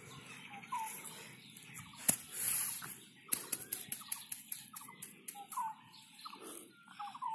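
Faint garden ambience: a few short, distant bird chirps over scattered light clicks and rustles, thickest in the middle of the stretch.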